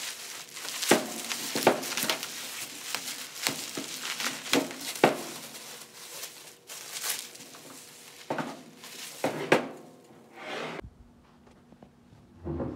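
Bubble wrap being handled: crinkling plastic with a string of irregular sharp cracks.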